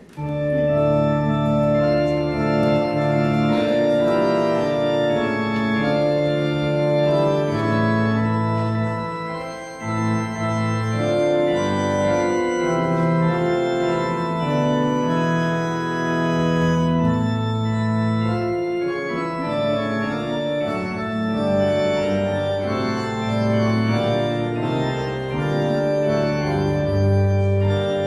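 Church organ playing the service prelude in slow, sustained chords, with a brief lull about ten seconds in.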